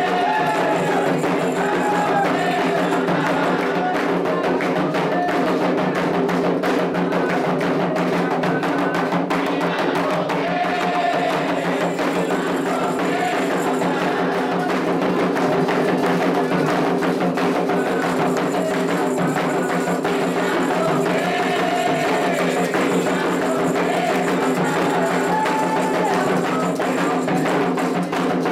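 Candomblé ritual music for Oxossi: atabaque hand drums play a fast, continuous rhythm with a struck bell keeping time, and voices sing in stretches over the drumming.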